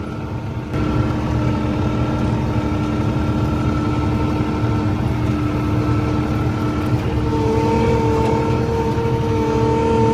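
Skid steer engine running steadily, getting louder about a second in as it is throttled up; a steady whine joins in near the end.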